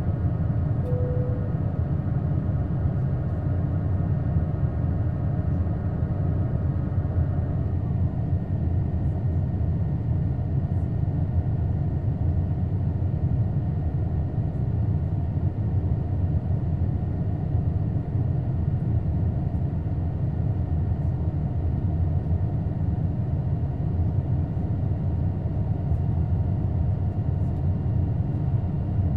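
Steady cabin rumble of an Airbus A220 with Pratt & Whitney PW1500G geared turbofan engines. A set of high, steady engine tones dies away about seven to eight seconds in, and a brief single tone sounds about a second in.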